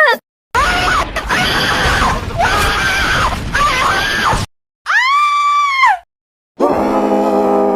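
Cartoon character screams played back to back with short silent gaps: first a long, ragged scream lasting about four seconds, then a short clear scream that rises and falls. Near the end a steady held note begins.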